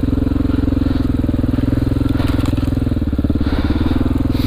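Honda XR400R's single-cylinder four-stroke engine running at steady low revs, its pitch holding level.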